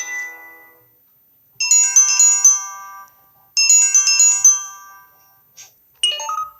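Samsung Galaxy phone ringtone: a short melody of quick, bright notes played twice, about two seconds apart, each note ringing out. The tail of a previous tone fades in the first second, and a different tone begins near the end.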